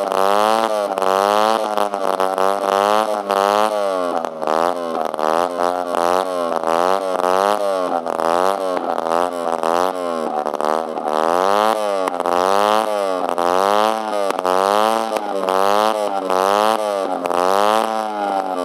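Peugeot Kisbee 4T 50cc four-stroke scooter engine with no muffler, revving up and down over and over, about once a second, with a raw buzzing exhaust note.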